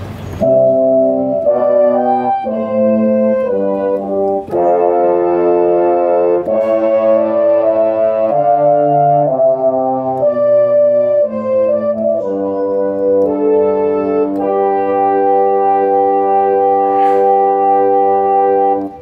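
Yamaha CK61 stage keyboard playing a brass patch: a run of sustained chords changing about once a second, then a long held chord near the end that cuts off.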